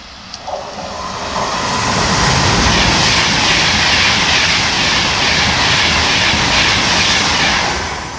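Virgin Class 390 Pendolino electric train passing through at speed: a rush of wheel-on-rail and air noise that builds over the first two seconds, holds loud, and fades near the end.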